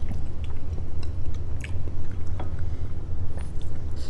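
Close-miked chewing and biting of food, with scattered small crisp clicks, over a steady low hum.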